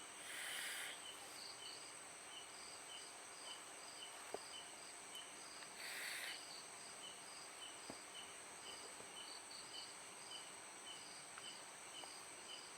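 Night insects such as crickets calling steadily: a continuous high-pitched drone with regular chirps about every half second. Two brief bursts of hiss come near the start and about six seconds in.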